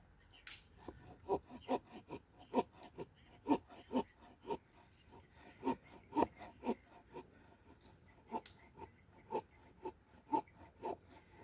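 An irregular run of short, sharp knocks and snaps, about two or three a second.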